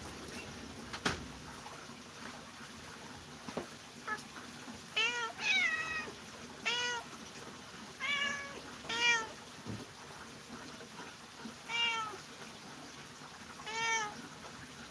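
Domestic cat meowing, about seven short meows in a row with gaps of one to two seconds, beginning about five seconds in. A single sharp click sounds about a second in.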